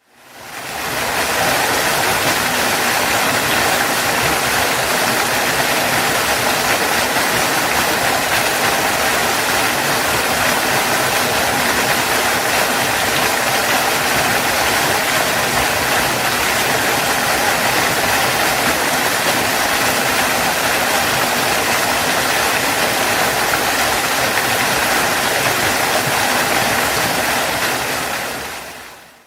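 Waterfall: a steady, even rush of falling water that fades in at the start and fades out near the end.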